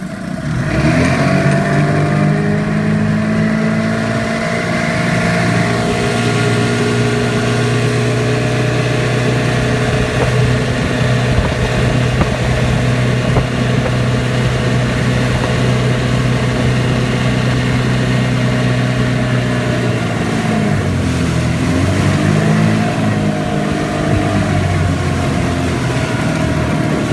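Sea King 12 hp two-stroke outboard motor running under way, picking up speed just after the start and holding a steady pitch. About twenty seconds in it eases off, the pitch dips, and then it picks up again.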